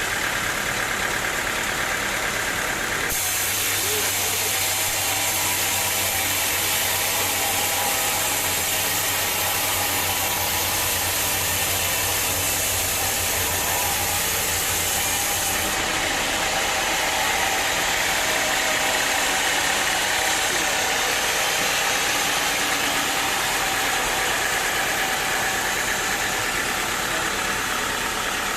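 Sawmill machinery running steadily, an engine-like drone with a hiss over it, shifting abruptly about three seconds in and again about halfway through.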